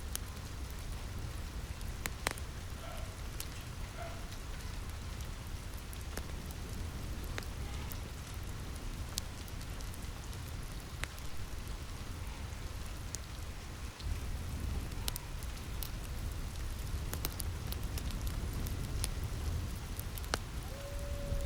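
Steady rain on a roof, with a low rumble underneath and scattered sharp crackles and pops from a wood fire. A brief faint tone sounds near the end.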